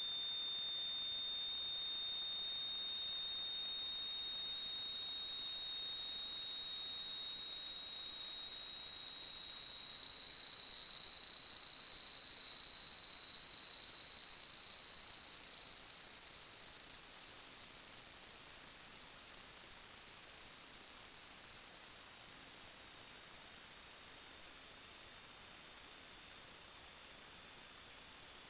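A steady, high-pitched electronic whine that creeps slowly upward in pitch, over a constant hiss.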